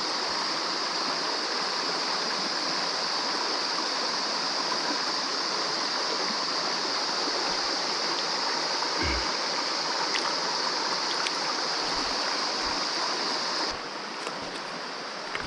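Mountain stream water running over rocks, a steady rushing hiss, with a couple of soft low knocks around the middle; the level drops a little shortly before the end.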